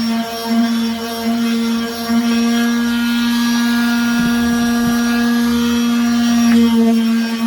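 Electric sander running steadily on wood, a constant motor hum whose upper overtones shift a little through the middle.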